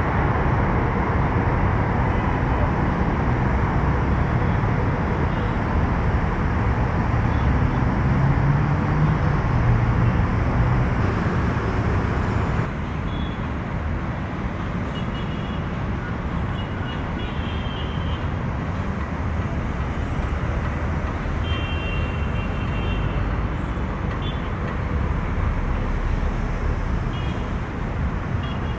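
Steady engine rumble with a noisy, rushing quality. About twelve seconds in it drops abruptly to a slightly quieter rumble, with a few faint high tones after.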